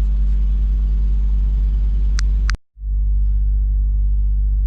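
Semi truck's diesel engine idling steadily, heard from inside the cab. Two short sharp clicks sound about two seconds in; the sound then drops out for an instant and the same steady idle resumes.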